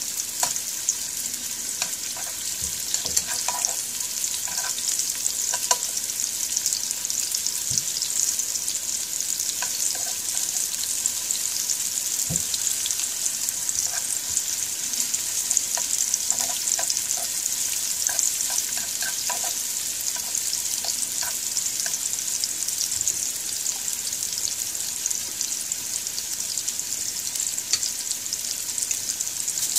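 Sliced shallots sizzling in hot oil in a coated frying pan, a steady high hiss, with light scattered clicks of chopsticks stirring against the pan.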